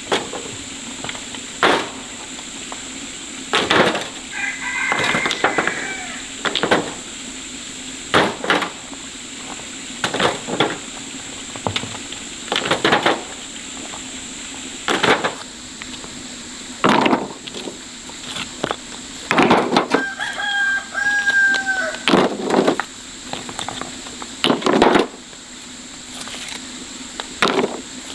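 A rooster crowing twice, over a run of sharp knocks that come about every one to two seconds.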